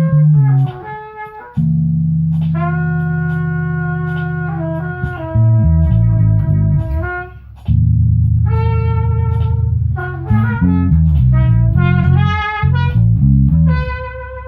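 Instrumental band jam with no singing: sustained low bass notes that change every second or two, under a guitar-led melody of long held notes.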